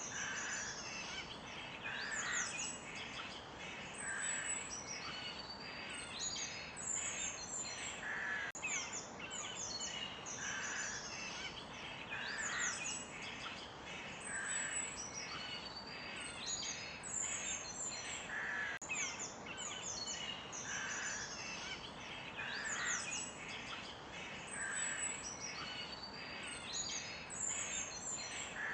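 A forest bird chorus: many small birds chirping and trilling at once over a steady background hiss, with one call repeating about every two seconds.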